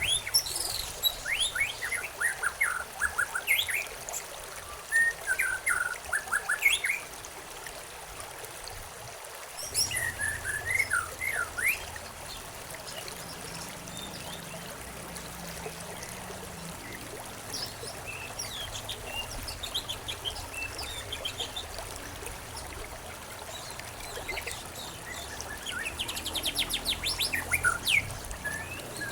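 Several songbirds chirping and calling in bursts over the steady trickle of running water, with a rapid trill near the end.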